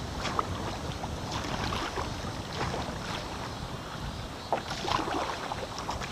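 Kayak paddle strokes in the water: irregular small splashes and drips over a steady wash of water.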